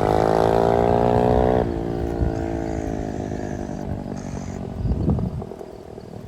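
Small single-cylinder dirt bike engine, a 140 cc swapped into a 125, revving up as the bike accelerates. About one and a half seconds in the pitch drops sharply, and the engine note then sinks and fades away.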